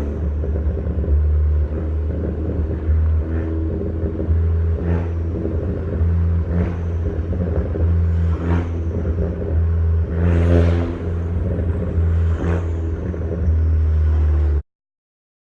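Straight-piped exhaust of an Audi A4 B6 1.8T turbocharged four-cylinder on the move: a steady low drone with small sharp pops every couple of seconds. These are burbles from a tune adding extra fuel on decreasing load. The sound cuts off suddenly near the end.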